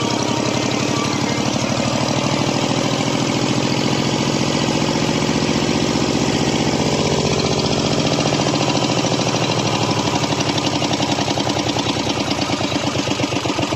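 Malticar M22 800 cc two-cylinder V-type diesel engine running with a rapid, knocking firing beat. Over the last few seconds the beats come slower and more distinct as the engine slows.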